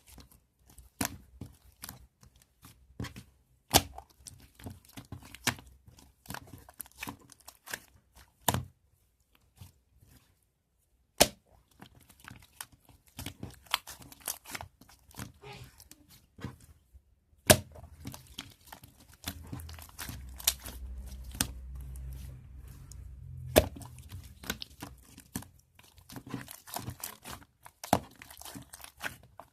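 Close-up handling noises: irregular sharp clicks and taps mixed with crinkling rustles. About twenty seconds in, a low rumble joins the clicks for a few seconds.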